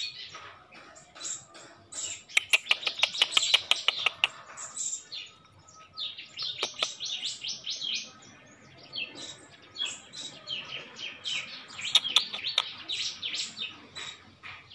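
A bird chirping in runs of short, high chirps, with a dense, fast run about two seconds in and another busy stretch near the end.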